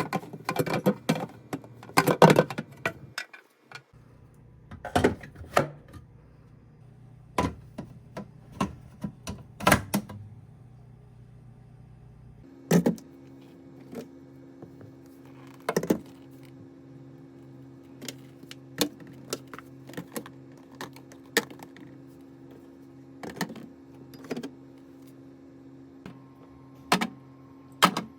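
Irregular clicks and knocks of containers, jars and fridge parts being handled and set down, over a steady low hum whose pitch changes about twelve seconds in.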